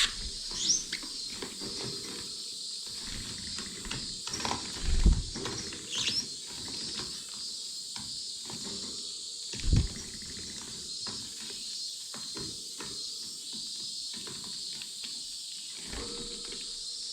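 Cage finches in an aviary giving a few short, high, rising chirps over a steady high hiss, with scattered small taps and a few soft thumps close by, the loudest about five and ten seconds in.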